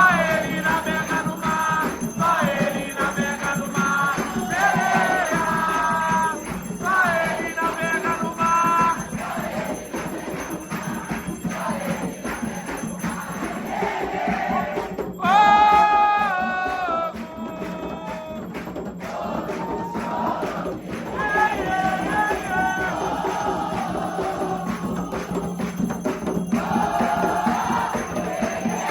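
Voices singing a devotional chant for Xangô, with steady percussion strikes and jingling bells, a sung phrase every second or two.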